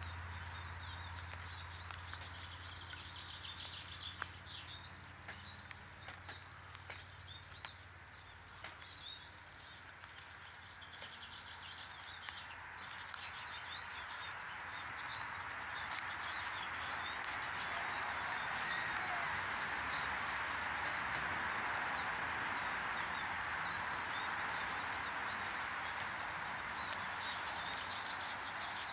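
Small garden birds chirping and calling around a bird table: short high chirps scattered throughout, with occasional sharp ticks. A steady rushing background noise grows louder about halfway through.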